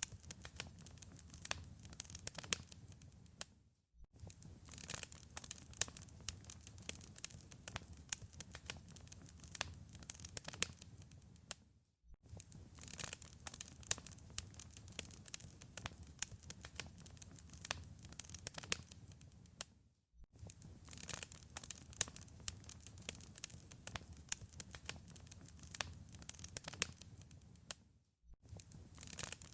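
Wood fire crackling in a fireplace: dense sharp snaps and pops over a low rumble. The sound fades out briefly and returns about every eight seconds, like a short recording played on a loop.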